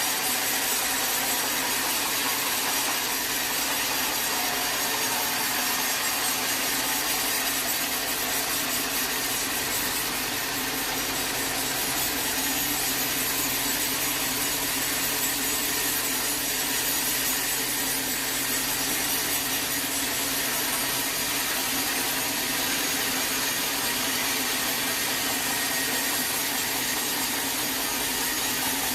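Sawmill saw cutting through teak wood, running steadily without a break.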